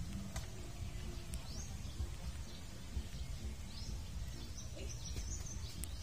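Outdoor background of a steady low rumble with small birds chirping several times, the chirps thickening near the end, and a few faint clicks.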